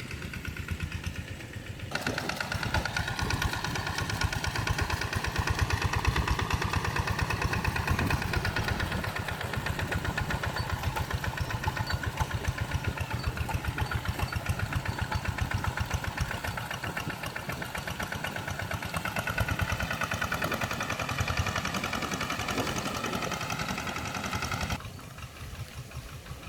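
Small engine of a walk-behind hand tractor running steadily as it levels a flooded rice paddy. It grows louder about two seconds in, its pitch wavers slightly with the load, and it falls away near the end.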